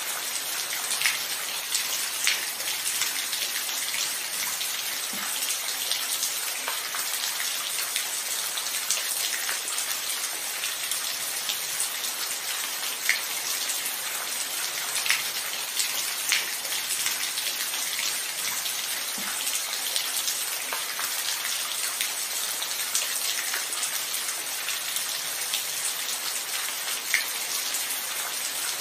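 Steady rainfall, a constant hiss, with close individual drops landing as sharp ticks every second or so. No thunder.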